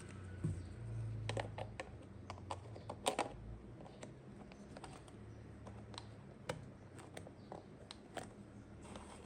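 Small plastic toy pieces clicking and tapping as they are handled and set down, in irregular light clicks, the loudest cluster about three seconds in.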